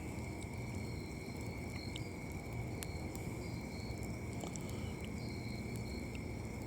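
Steady night chorus of crickets trilling at one constant high pitch, with a few faint pops from a campfire's coals.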